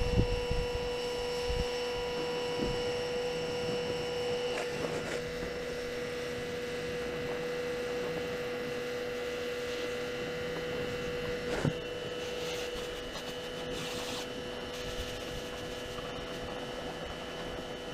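A steady hum at one pitch, with a few sharp clicks about four and a half, five and eleven and a half seconds in.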